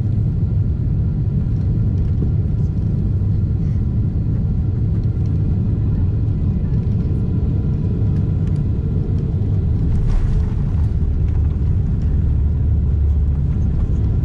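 Steady low rumble of a Boeing 747-8 airliner heard inside its cabin, with a brief rushing hiss about ten seconds in.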